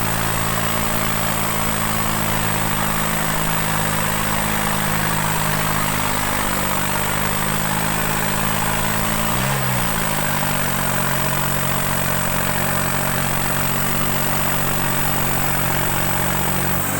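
New Holland 3630 tractor's three-cylinder diesel engine running steadily under an even hiss. Its pitch dips briefly about halfway through, then it settles at slightly lower revs.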